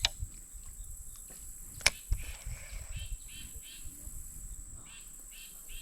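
Insects buzzing steadily at a high pitch, with a run of short repeated chirps starting about two seconds in. A couple of sharp knocks cut through, the loudest about two seconds in.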